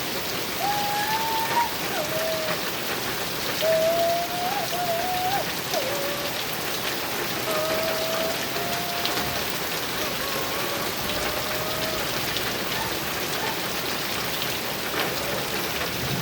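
Heavy rain pouring steadily on a metal roof, a dense even patter. Several short, wavering pitched sounds, each under a second, recur through it.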